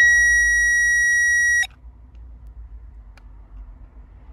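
A single steady electronic beep about a second and a half long, cutting off sharply, from the beeper of an electrical test tool as a fuse circuit is probed.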